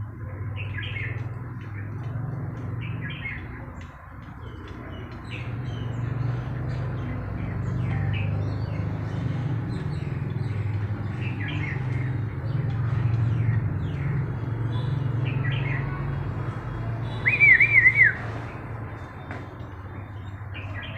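A small bird chirping, short high calls every second or two, then a brief louder warbled phrase near the end, over a steady low hum.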